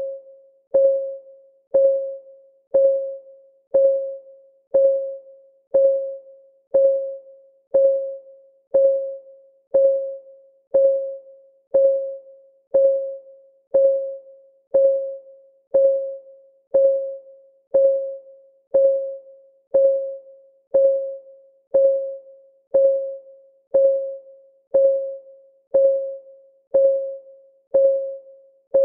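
Countdown timer's clock ticking sound: one steady tick per second. Each tick is a short, pitched tap that rings out briefly on the same note.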